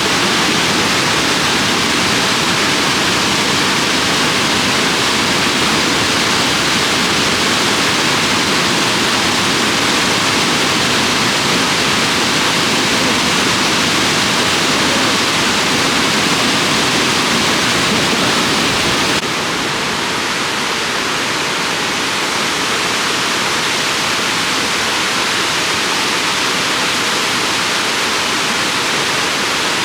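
Shirahige Falls, water pouring down a cliff into the Biei River: a loud, steady rush of falling water. About two-thirds of the way in it drops a little in level and loses some of its low end.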